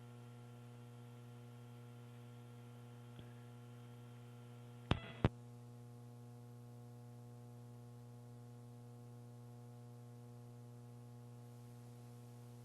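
Steady electrical hum on the launch commentary audio feed, with two sharp clicks about a third of a second apart about five seconds in.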